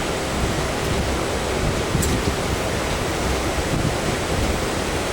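Steady rushing noise of a moving MEMU electric train, with wind buffeting the microphone.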